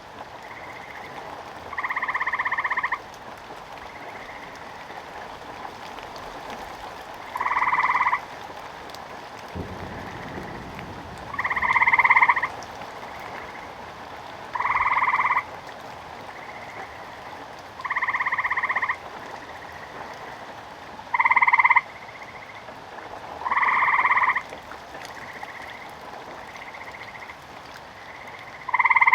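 Frogs croaking in the rain: one frog gives loud calls of about a second each, eight in all at intervals of a few seconds, while a fainter frog calls between them, over a steady hiss of rain. A low rumble of thunder comes in about a third of the way through.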